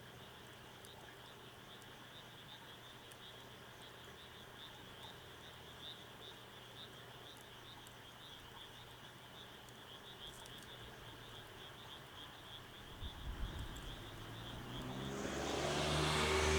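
A steady chorus of high, rapidly pulsing animal calls, typical of frogs or insects at night. Near the end, a motor vehicle approaches with a low engine hum that grows steadily louder.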